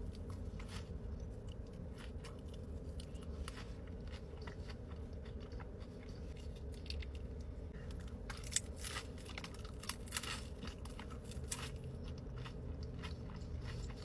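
Close-up mouth sounds of a person biting and chewing a taco: wet clicks and crunches, coming thickest and loudest a bit past halfway.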